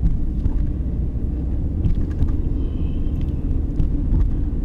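Car driving slowly, heard from inside the cabin: a steady low rumble of engine and tyres, with a few light clicks and rattles.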